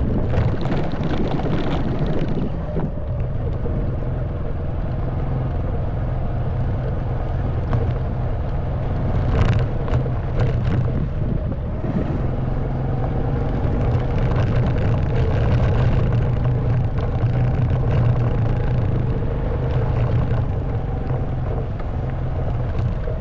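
Honda Wave 110cc single-cylinder four-stroke engine running steadily under way, with a few short knocks and rattles from the bike about nine and ten seconds in.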